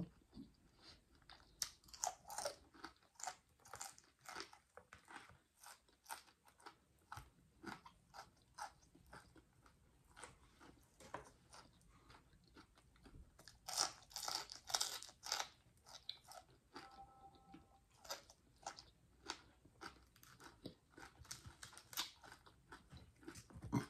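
A person chewing and crunching fried food close to the microphone: irregular crisp crunches and mouth clicks, with a denser run of crunching about 14 seconds in.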